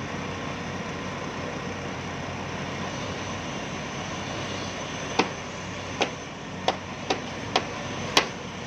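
A steady machine drone, then from about five seconds in six sharp hammer blows, irregularly spaced about half a second to a second apart.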